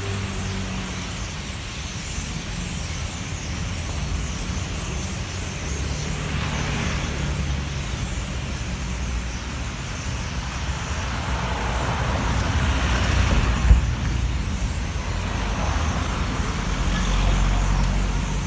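Street traffic: car and truck engines running and vehicles passing in waves, with a short sharp knock about fourteen seconds in.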